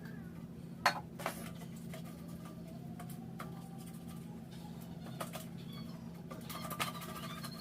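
A few sharp clicks and light knocks of handling a baking tin while it is greased, over a steady low hum.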